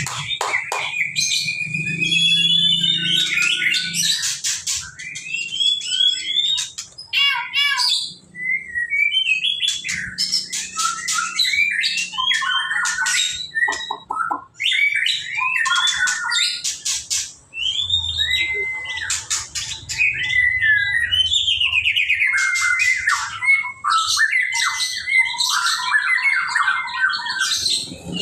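Songbird singing a long, continuous, varied song of whistled glides, rapid warbled trills and sharp clicking notes.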